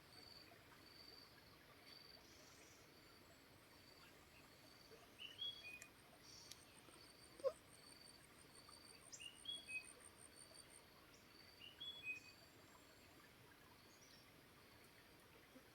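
Faint forest ambience over a soft steady hiss of flowing water. A bird calls three times with a short falling phrase, and a steady high chirp repeats evenly about one and a half times a second. A fast high trill runs for a few seconds in the middle, and a single short sharp note is the loudest sound.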